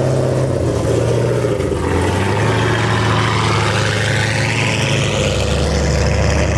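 High-horsepower car engine running, with a whine that starts about two seconds in and climbs steadily in pitch.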